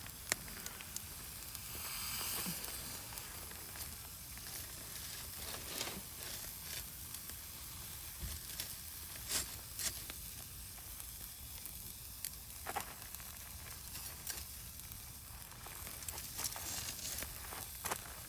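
Campfire burning with a steady sizzling hiss and scattered sharp crackles and pops, the hiss swelling briefly about two seconds in.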